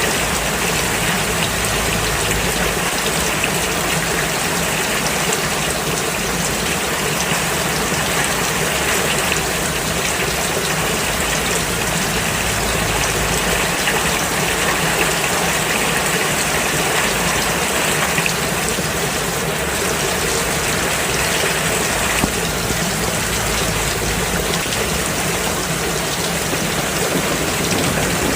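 Rain falling steadily on a road: an even, unbroken hiss of drops on the wet surface.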